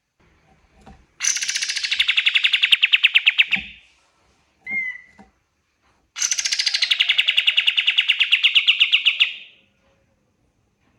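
A kapas tembak songbird singing two long, fast trills of a few seconds each, with a short single note between them. Each trill starts higher and settles to a lower pitch.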